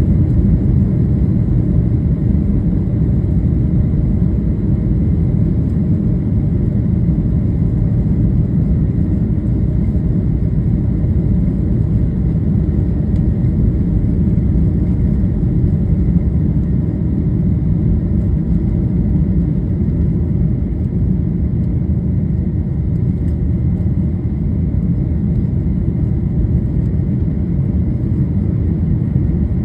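Boeing 737-800 jet taking off: a loud, steady low rumble of the engines at takeoff power, with a faint thin whine above it.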